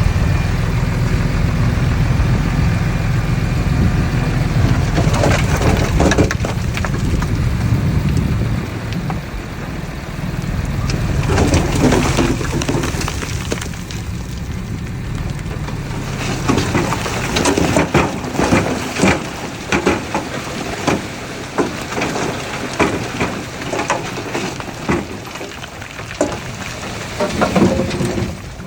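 Heavy earthmoving machinery with its diesel engine running under load, a steady low rumble that eases off after about eight seconds. It gives way to irregular crunching and crackling of soil and stones being dumped or pushed.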